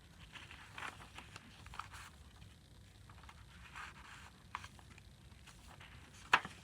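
Faint rustling and light scraping of paper journal pages, tags and envelopes being handled, with a sharp tap near the end.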